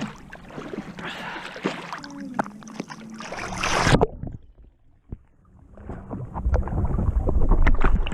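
Water splashing and sloshing close to the microphone as a swimmer moves in calm water. It cuts out sharply about halfway, then comes back louder with a low rumble of water against the microphone.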